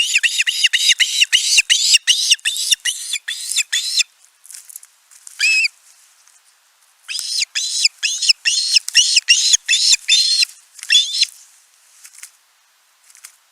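Osprey calling: series of rapid, high whistled chirps, about three a second, in two bouts with a pause and a lone call between them.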